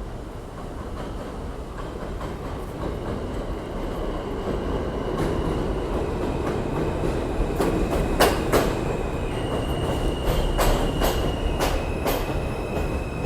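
New York City subway train approaching on the elevated line, growing steadily louder. Its wheels clack sharply over rail joints and give a high, steady squeal from about halfway through.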